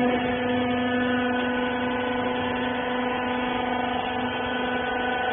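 Small rag baler's electric motor and hydraulic pump running, a steady hum.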